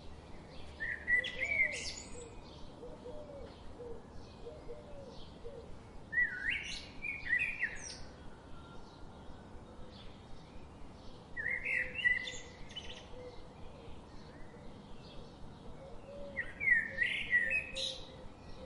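A songbird singing the same short, varied phrase four times, about five seconds apart, over faint chirping from other birds in the background.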